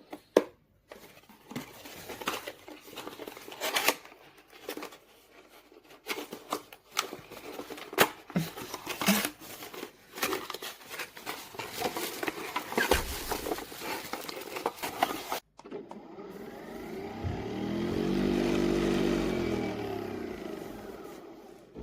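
Clicks, taps and knocks of a coffee pod machine being handled. After a break comes a motor whir that rises in pitch, holds, then winds back down over a few seconds.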